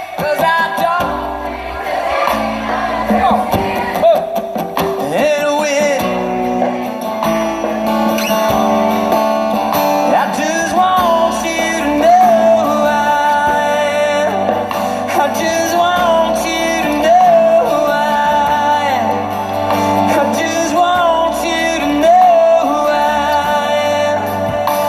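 Live country band playing loud amplified music with guitar, and a sung melody line with vibrato.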